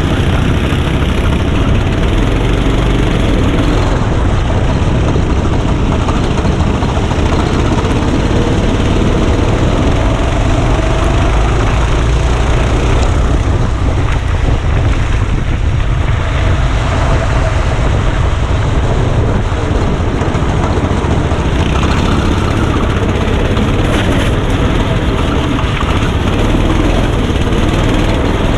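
Go-kart engine running under way, heard from on board the kart, with a dense rushing noise throughout and a faint engine pitch that wavers up and down with speed.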